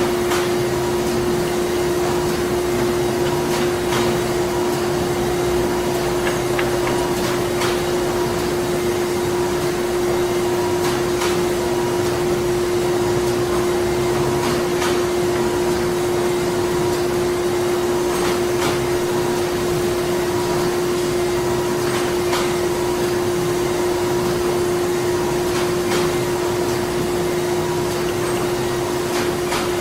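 Printing plant machinery running: a steady mechanical drone with a strong constant hum and a light click about every three and a half seconds.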